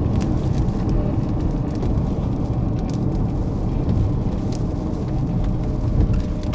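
Steady road and engine rumble of a moving vehicle heard from inside the cabin, with scattered light ticks over it.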